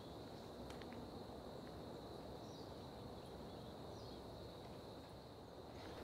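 Faint outdoor ambience: a steady, high-pitched insect drone over a low background rumble, with a few faint short ticks.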